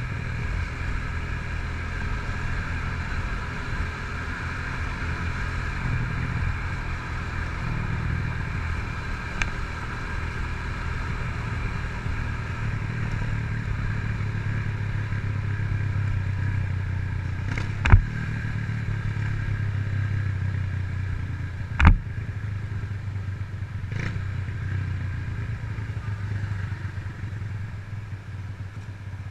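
The air-cooled single-cylinder engine of a 2007 Honda CG Titan 150 with a Fortuna aftermarket exhaust, running fairly steadily while the bike is ridden. Two sharp knocks come in the second half, about four seconds apart.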